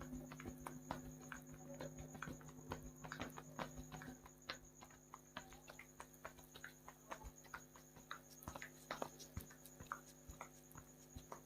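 Faint, irregular soft taps and clicks of hands working over a head and scalp during a head massage, over a steady low hum.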